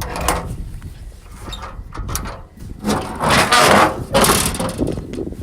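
Clattering and scraping of the Daihatsu mini truck's bed gates and latches being handled, loudest about three to four and a half seconds in.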